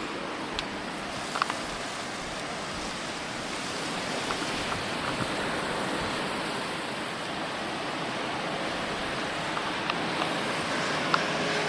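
Blizzard wind blowing steadily as a continuous rushing noise that swells slightly in the middle, with a few faint ticks scattered through it.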